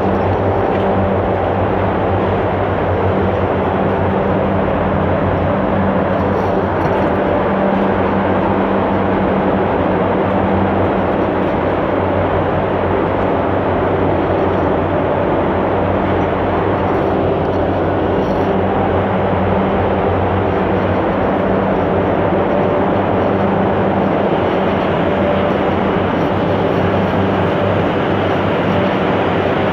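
A steady, loud machine drone with a low hum, unchanging throughout.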